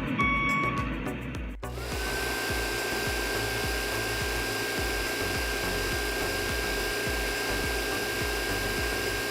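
Repeating electronic beeps, then a small electric motor starts up about one and a half seconds in: a whine rises quickly and settles into a steady whir.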